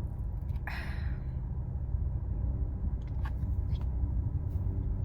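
A steady low rumble, with a breathy exhale about a second in and a few faint clicks later on.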